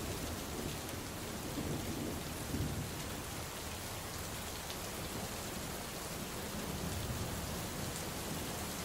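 Steady rain falling with distant thunder rumbling low underneath, the rumble strongest in the first few seconds and fading back into the rain.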